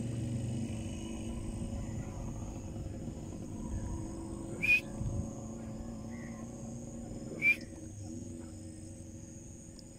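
Two short, sharp bird calls about three seconds apart, over a steady low rumble.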